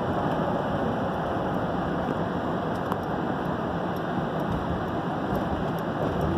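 Steady road and tyre noise of a car driving at highway speed, heard from inside the cabin.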